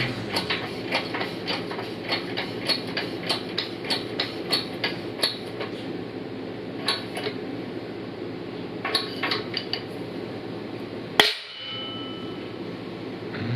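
Hammer tapping on metal: quick light taps, about three a second, for around five seconds. A few more taps follow, then one sharper, louder strike near the end.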